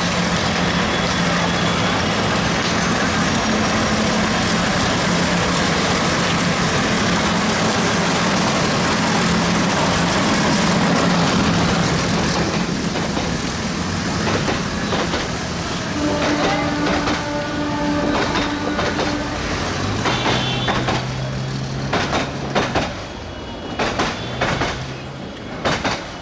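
Bangladesh Railway intercity passenger train passing very close on metre-gauge track: a loud, steady running roar for about the first twelve seconds, then the coaches rattling past with sharp clicks of the wheels over the rail joints.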